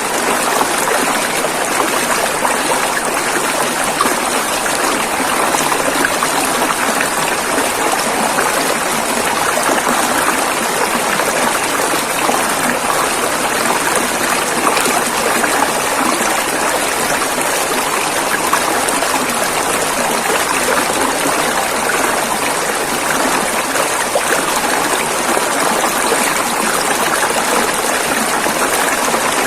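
River water rushing and splashing over rocks in a steady, even wash of noise.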